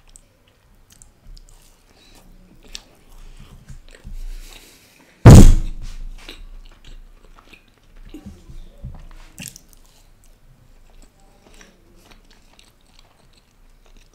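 Close-up mouth sounds of a man eating a chocolate brownie: soft biting and chewing smacks. One loud, sudden thump comes about five seconds in.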